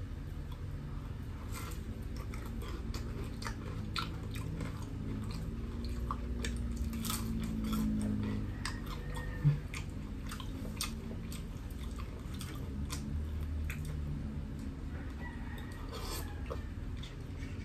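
Close-up eating sounds of Jollibee Chickenjoy fried chicken: chewing with many small crisp crunches and mouth clicks. A single dull thump about halfway through.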